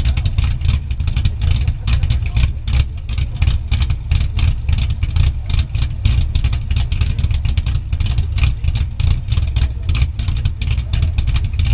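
1988 Ford Mustang engine idling through its exhaust, a loud steady low rumble with a quick, uneven pulse.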